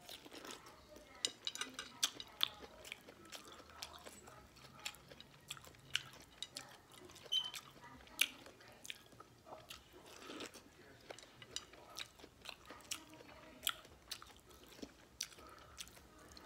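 A person biting kernels off an ear of corn on the cob and chewing, heard close up as a scatter of faint, crisp clicks and crunches.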